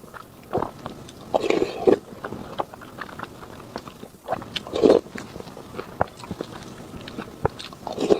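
Close-miked eating: a person biting and chewing food, with many small wet clicks and louder bursts about one and a half seconds in, about five seconds in and near the end.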